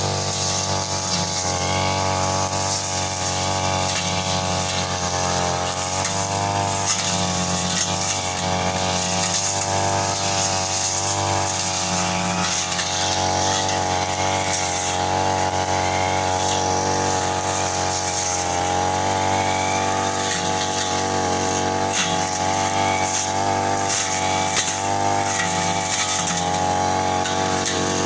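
Brush cutter engine running at high speed while cutting growth, its pitch wavering and dipping now and then.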